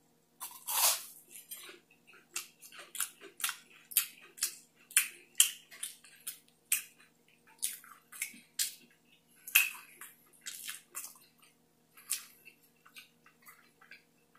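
A bite into a breaded deep-fried snow crab leg, then close-up chewing with many short, irregular crunches.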